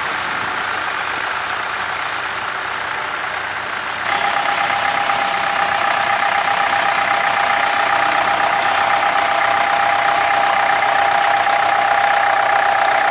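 Tractor engine running steadily. About four seconds in it gets louder and a steady high whine sits over the engine.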